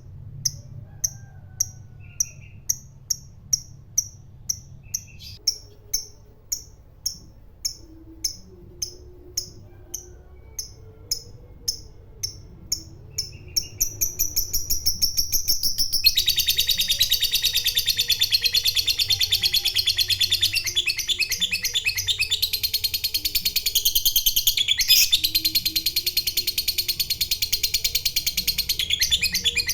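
Lovebird giving high, evenly spaced chirps about two a second that quicken about 13 seconds in and run together into a continuous, rapid, high-pitched chattering trill: the long 'ngekek' call prized in fighter lovebirds.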